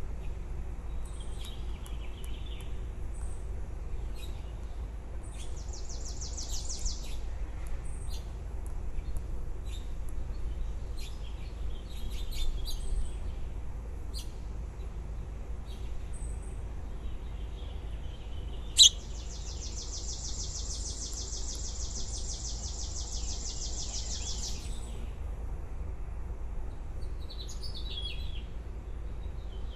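Baby birds chirping with short high notes, twice breaking into a rapid, buzzy trill: briefly about six seconds in, then for about five seconds right after a sharp click in the second half. A steady low hum runs underneath.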